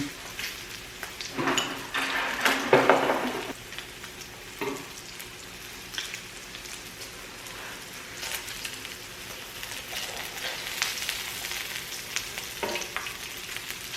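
Pork belly sizzling on a tabletop grill, crackling and spitting in its rendered fat. There are a few light clicks, and a louder sound about two seconds in.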